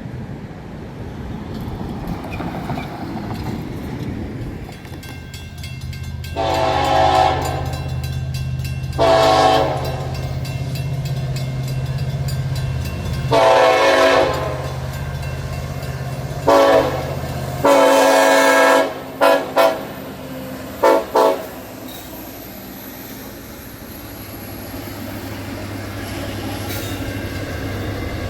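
Train horn sounding over a passing train: three blasts of about a second each, a short one and a longer one, then four quick short toots, with the train's steady low running underneath.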